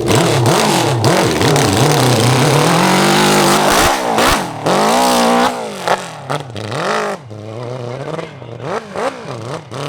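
Large-displacement hillclimb motorcycle engine revving hard, its pitch climbing and falling with the throttle. About halfway through it drops to a quieter level with a series of short throttle blips.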